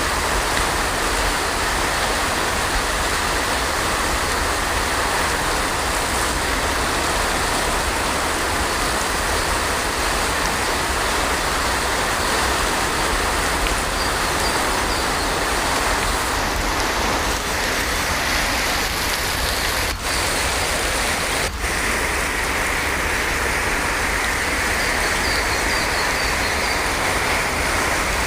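Heavy rain falling steadily, an even hiss of water. Twice, a little past the middle, the sound briefly drops out for an instant.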